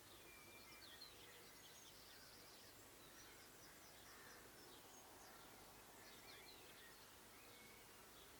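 Faint dunnock song: quick, high warbling phrases, one about a second in and another around the middle, over a steady background hiss.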